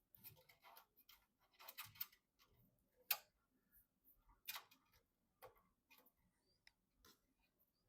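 Scattered small clicks and taps of PC components and parts being handled during assembly, irregular and sharp, the loudest about three seconds in.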